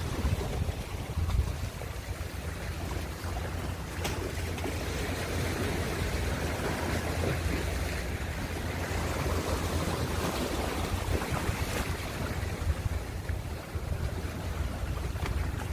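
Ocean waves washing and breaking in a steady rush of surf with a deep low rumble, swelling and easing slightly.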